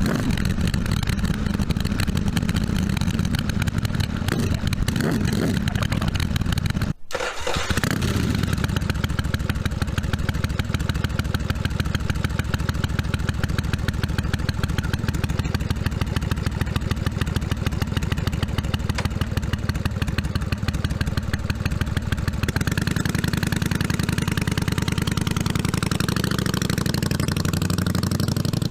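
1982 Yamaha Virago 750's V-twin engine running steadily, with even firing pulses. The sound drops out for an instant about seven seconds in, and the note changes and settles lower about twenty-two seconds in.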